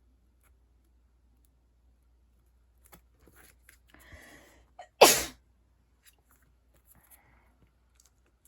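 A person sneezes once, about five seconds in, a short sharp burst after a brief breathy intake.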